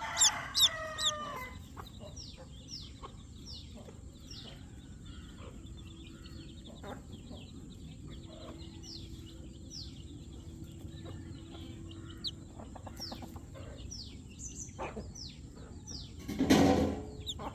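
Baby chicks peeping: many short, high, falling chirps scattered throughout, in a quick flurry at the start. A louder, lower chicken call comes near the end.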